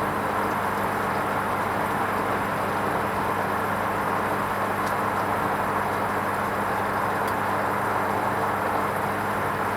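Hoover Vision HVP16 washing machine running its wool rinse cycle: a steady low electrical hum under an even rushing noise.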